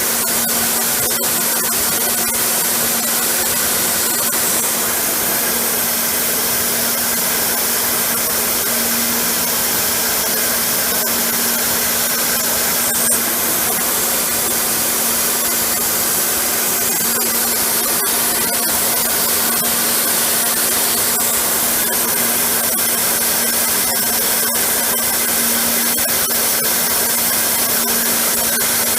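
Portal milling machine running: a steady, loud whirring hiss with a constant low hum and scattered faint ticks, and a brief high chirp about 13 seconds in.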